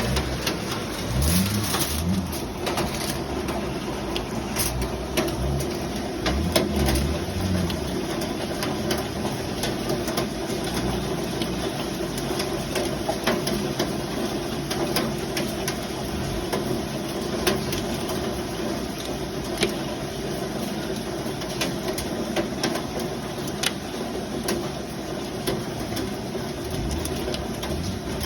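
Hail and rain on a window: a steady patter with many sharp ticks of hailstones striking the glass, loud enough to sound like knocking. A low rumble runs under it for the first several seconds.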